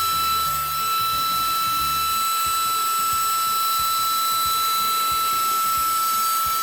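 A steady high-pitched machine whine, holding one pitch without a break, over background music with a low, stepping bass line.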